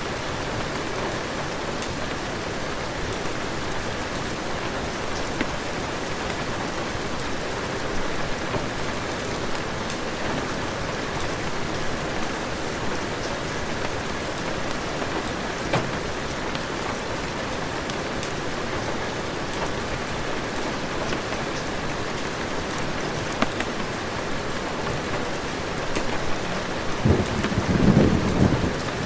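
Steady heavy rain, with scattered sharp clicks through it, and a short, loud rumble of thunder near the end.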